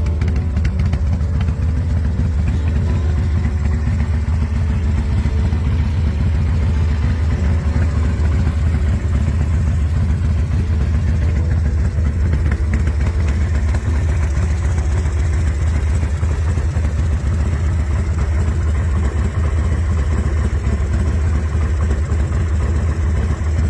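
2004 Big Dog Bulldog custom chopper's V-twin engine idling steadily.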